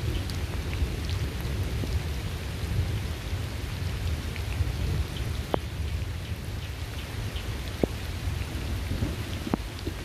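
Steady heavy rainfall over a continuous low rumble of thunder, with a few sharper single drops striking close by.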